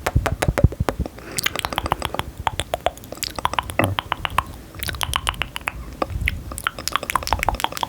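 Close-miked ASMR sound of quick, crackly clicks in runs of a second or two with short pauses between, of the chewing kind.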